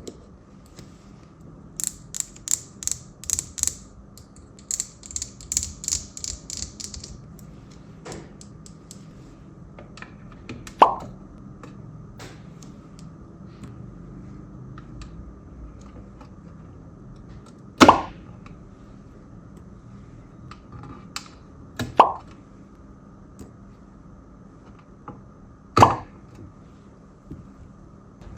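Plastic fidget toy being worked: two quick runs of sharp clicks in the first seven seconds, then four single plops spread out every few seconds, each a short pop that drops in pitch.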